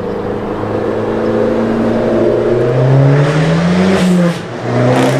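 Abarth 500's turbocharged 1.4-litre four-cylinder through a decatted, straight-piped Bombardone exhaust: idling, then revved once, rising over about a second and a half and dropping back, with a second rev starting near the end. Very loud.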